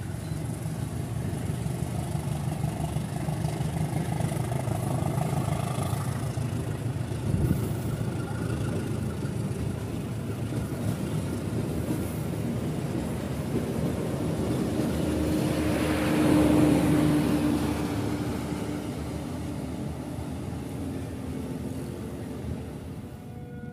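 Road traffic running past: a steady rumble of engines, with one louder vehicle coming closer and passing about two-thirds of the way through.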